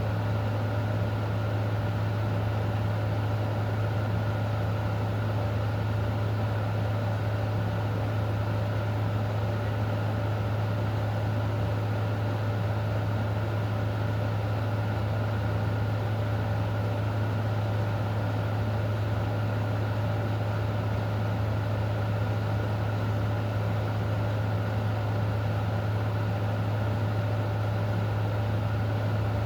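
Steady low machine hum with fainter constant tones above it and a light hiss, unchanging throughout.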